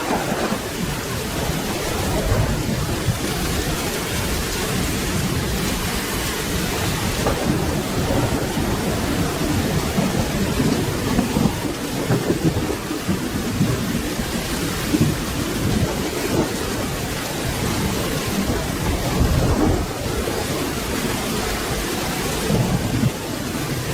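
Steady rain with a continuous low rumble of distant thunder underneath.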